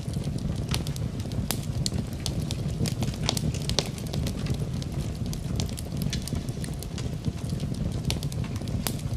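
Wood fire crackling in a fireplace: a steady low rumble of burning logs under many irregular sharp pops and snaps.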